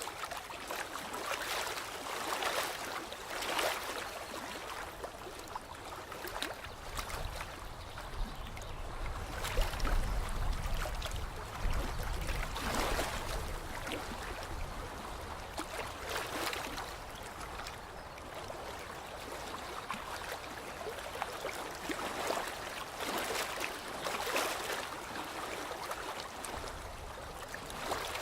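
Lake water lapping and splashing irregularly at the shore, with small slaps every second or two. A low rumble comes in under it from about eight to fourteen seconds in.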